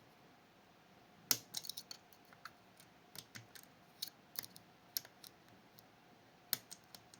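Lock picks working the levers inside a Fichet 484 lever sidebar lock: small, sharp metallic clicks and ticks, scattered and irregular, the sharpest about a second in, as a lever is lifted and tested for setting.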